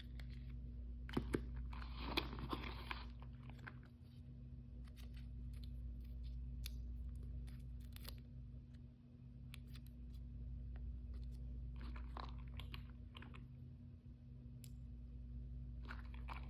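Hands handling toy packaging: scattered light clicks and taps, a short crinkling rustle about two seconds in and brief crinkles near the end, over a steady low hum.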